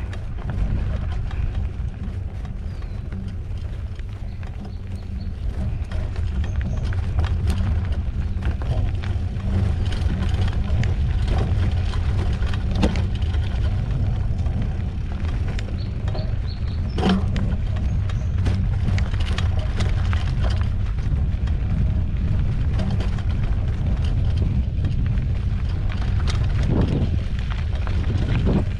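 Mountain bike rolling along a dirt trail: a steady low rumble of tyres and wind on the microphone, with frequent clicks and rattles from the bike over bumps. It gets a little louder about six seconds in.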